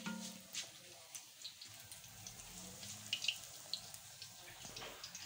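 Banana pieces frying in hot oil in a pan: a faint steady sizzle with scattered small pops and crackles.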